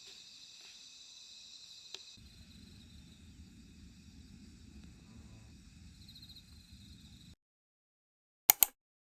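Crickets chirring steadily, joined about two seconds in by a low rumble; both cut off suddenly, and near the end come two sharp clicks close together, the loudest sounds here.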